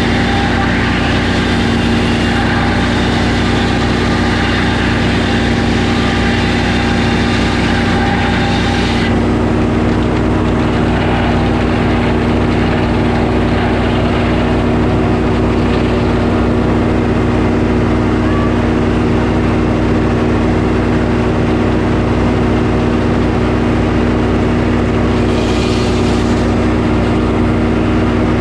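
Portable sawmill's engine running steadily under the milling of a pine log, with a higher hiss on top for about the first nine seconds that then drops away, and a short burst of hiss again near the end.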